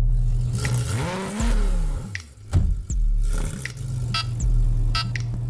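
A car engine revving, its pitch rising and then falling, with a sudden loud crack about two and a half seconds in.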